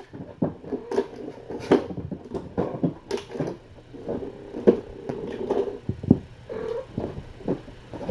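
Mother cat playing and dashing about among her kittens: a string of irregular thumps and knocks, with a short cat call about six and a half seconds in.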